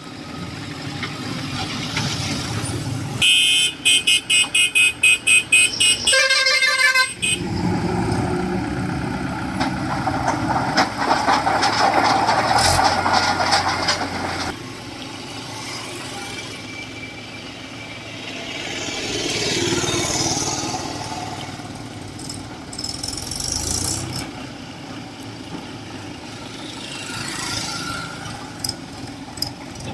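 Vehicle horn sounding a quick series of short toots, about three a second, for a few seconds, then a short pitched horn call. After that comes the steady running noise of heavy machinery, which eases off and swells again.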